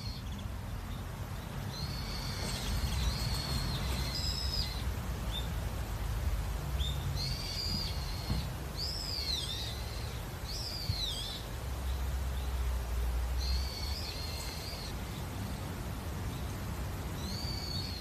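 Songbirds singing short phrases of high, slurred whistled notes, about six phrases a few seconds apart, over a steady low rumble.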